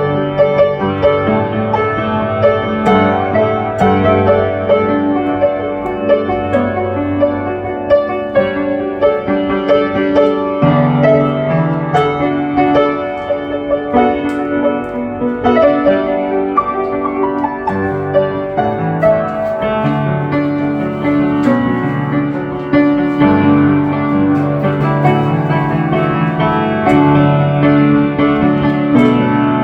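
Piano music: held chords over a low bass line, with new notes struck every second or so.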